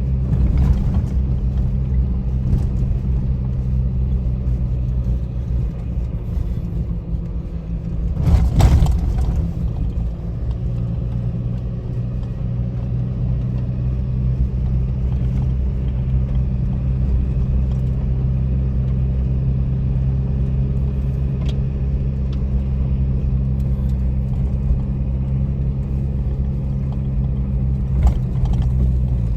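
Car engine running steadily while driving, a low even drone. There is a brief louder burst of noise about eight and a half seconds in.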